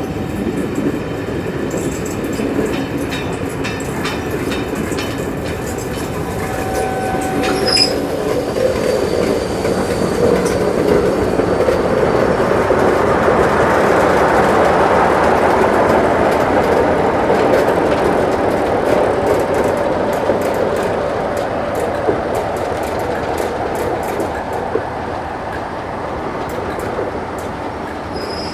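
Train rolling through the station: a steady rumble of wheels and carriages that swells to its loudest midway and then eases off, with brief thin wheel squeals in the first third and rapid clicking of wheels over rail joints near the end.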